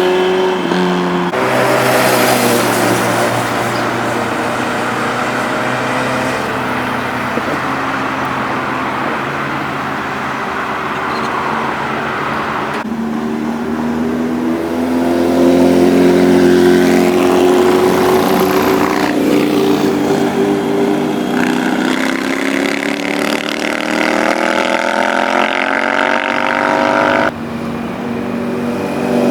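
Sport motorcycle engines revving and accelerating past, their pitch rising and falling. The sound changes abruptly several times, as separate clips are spliced together.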